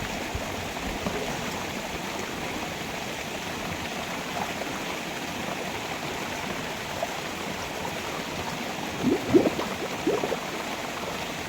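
River water running steadily, a continuous rushing, with a few brief louder sounds about nine to ten seconds in.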